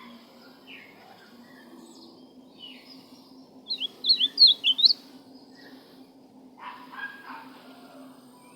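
Ultramarine grosbeak (azulão) singing: one short, loud phrase of quick, sweeping whistled notes a little before the middle, with fainter chirps before it. A steady low hum runs underneath.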